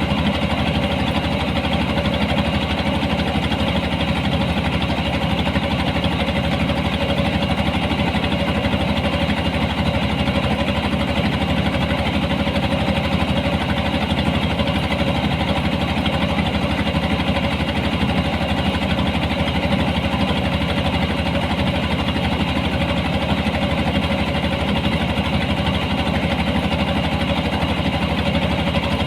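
Engine of a harvesting machine running steadily at a constant speed, with no change in pitch or level.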